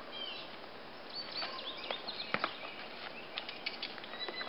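Songbirds chirping over a steady background hiss, with a handful of sharp clicks from about a second and a half to two and a half seconds in.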